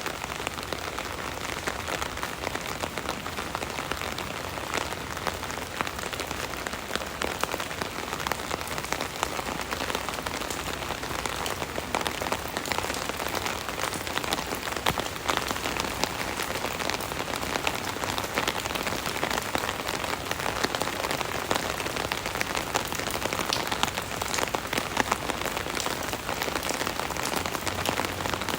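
Steady rain drumming on an umbrella canopy, a dense patter of many small drop impacts over a continuous rain hiss.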